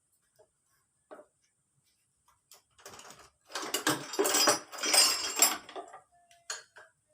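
Metal tools and engine parts clinking and clattering during engine disassembly: a few separate clicks, then a busier run of clatter in the second half, ending in a couple of clicks.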